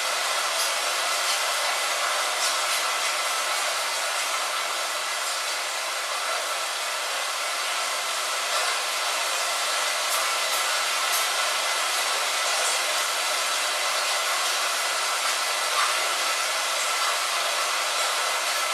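Light rain falling on a window: a steady hiss, with faint ticks of single drops scattered through it.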